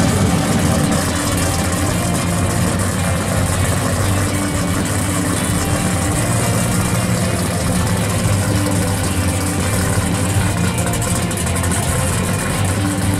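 Pro street 1970 Plymouth 'Cuda's V8 engine idling loudly and steadily through its exhaust.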